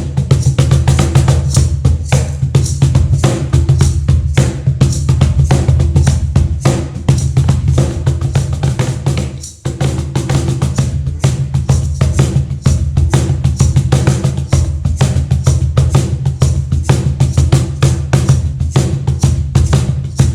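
Meinl cajon played in a fast, dense groove of deep bass strokes and sharp slaps, with a brief break about nine and a half seconds in.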